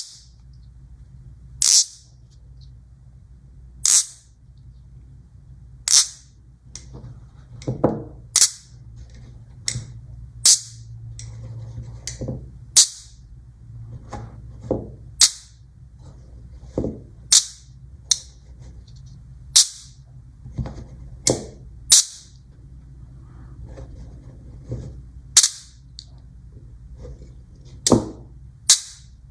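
Small magnet balls snapping together with sharp, bright clicks, about one every second or two at an uneven pace, with softer rolling and scraping between snaps.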